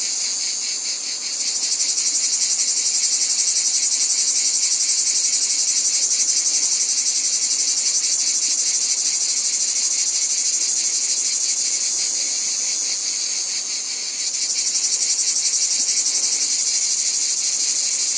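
Loud, continuous chorus of insects trilling in rapid pulses, typical of crickets or cicadas, that dips briefly about a second in and again about three quarters of the way through before swelling back.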